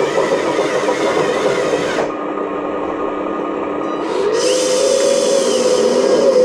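Small electric motors of a radio-controlled model excavator whining as it works. The whine changes about two seconds in, and about four seconds in it steps up in pitch and holds.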